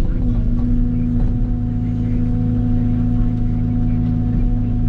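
Diesel engine of a mini excavator running at a steady speed, with a few faint knocks over the engine note.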